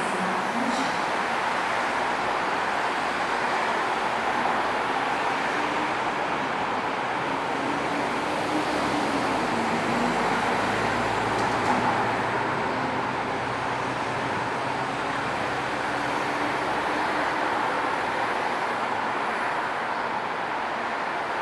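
Korail Class 341000 electric train running, a steady rumble of wheels on rail with the GTO-VVVF inverter's faint low whine shifting in pitch midway.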